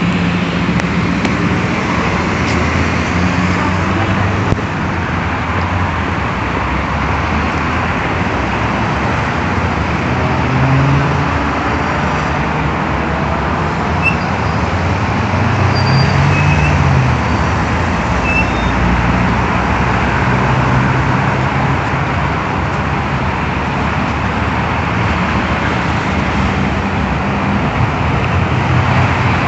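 Vacuum street-sweeper truck running along a road: a steady din of engine and suction fan, with the engine note rising and falling now and then, amid road traffic.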